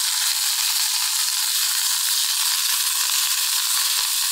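Blanched sugar snap peas sizzling in a little hot oil in a frying pan while wooden chopsticks turn them: a steady hiss.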